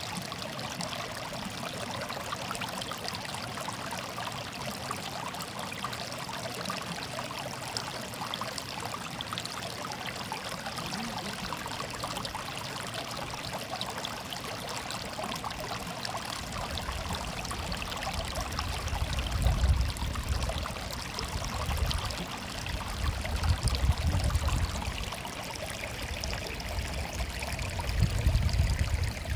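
Water murmuring and trickling steadily, like a small stream. From a little past halfway, a low rumble comes and goes in loud gusts.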